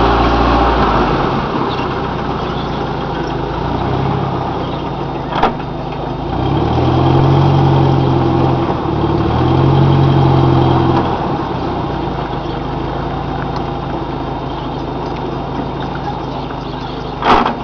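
Mud-bog truck engine running steadily, getting louder for two stretches of a couple of seconds each around the middle as it is given throttle. A single sharp knock comes about five seconds in.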